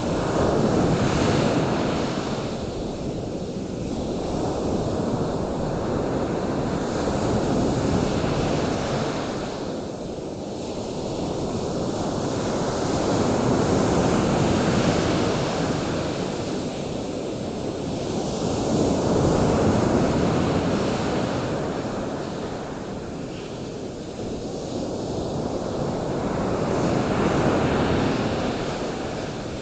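Surf: waves rushing in as a steady wash of noise that swells and fades about every six to seven seconds.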